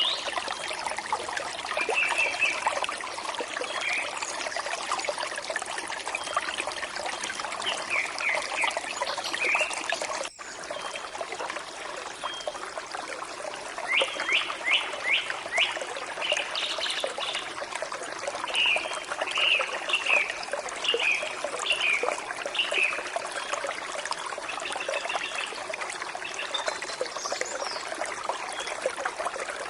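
Forest stream trickling and burbling steadily, with birds chirping in short bursts of quick repeated notes over it, among them a run of four fast downward notes about fourteen seconds in. The sound drops out for an instant about ten seconds in.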